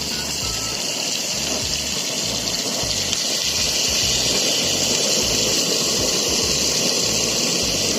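Leftover tandoori masala marinade sizzling in a hot pan around chicken pieces, a steady hiss that slowly grows a little louder.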